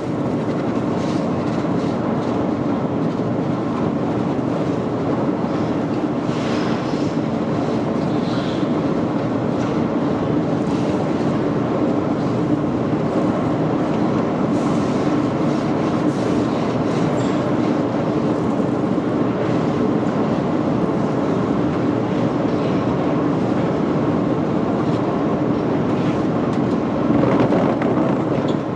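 Steady, continuous machine noise with a constant low hum running underneath.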